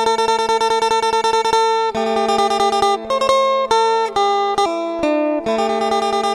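Background music: a fast, evenly picked guitar playing sustained chords that change every second or so.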